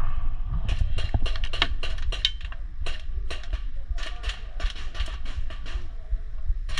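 Airsoft guns firing: a run of sharp clicking pops, several a second and in irregular strings, over a low steady rumble.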